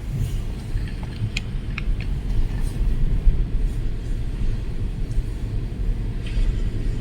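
Strong storm wind buffeting the microphone, a steady low rumble. A few faint short ticks come about one and a half to two seconds in.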